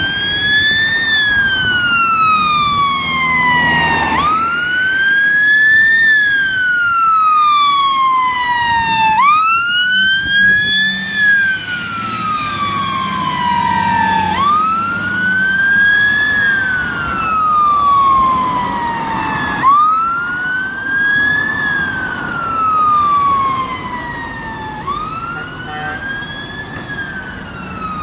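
Fire engine siren on a slow wail. Each cycle rises quickly and then falls slowly, about once every five seconds, over the low hum of the appliance's engine. The siren grows slightly fainter near the end.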